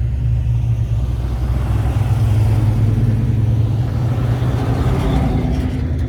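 Car engines running with a steady low rumble. A vehicle's noise swells from about two seconds in and fades near the end, as a car goes by.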